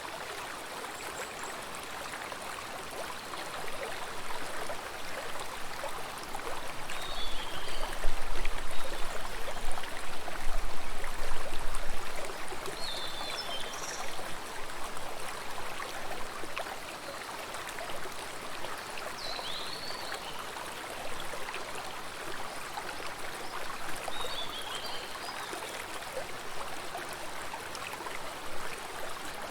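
Stream of water flowing steadily, a continuous rush, with a few short high chirps scattered through it and a louder low rumble between about 7 and 12 seconds in.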